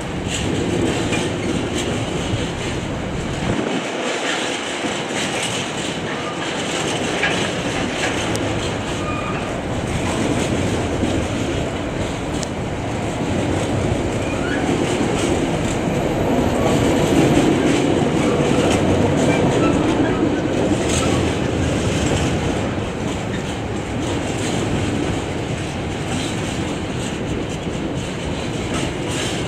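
A train running past on the tracks, its wheels clattering over the rails in a steady rumble that swells to its loudest a little past the middle.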